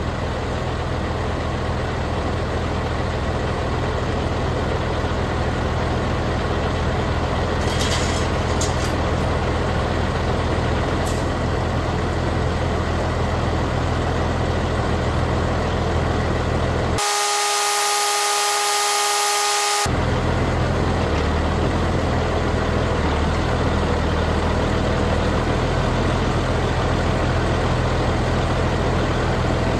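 Heavy truck engine running steadily. About halfway through, a horn-like tone with several pitches sounds for about three seconds and cuts off suddenly.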